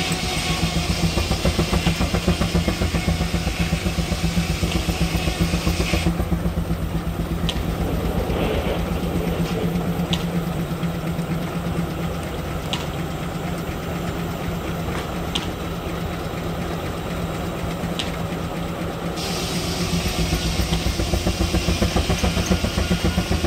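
Steam traction engine running a belt-driven sawmill: a steady, fast exhaust beat under a steady hum. A hiss in the upper range stops about six seconds in and returns near the end, and a faint click sounds every two to three seconds in between.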